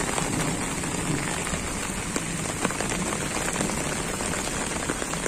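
Steady rain falling on a wet asphalt lane and puddles, an even hiss with a few sharper drop splats.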